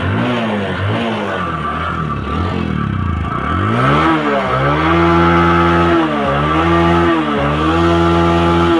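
Bajaj Discover 125's single-cylinder four-stroke engine being revved: a few quick throttle blips, then held at high revs about four seconds in, with two brief dips, before dropping back at the end. It revs cleanly, and the seller calls the sound good, nothing wrong.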